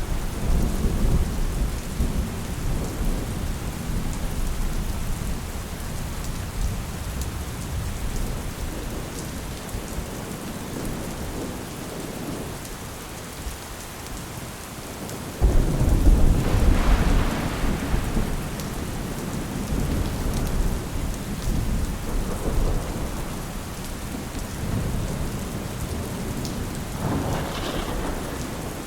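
Steady rain with rolling thunder. A rumble fades over the first few seconds; about halfway through a sudden, louder clap rumbles on for several seconds; a softer roll comes near the end.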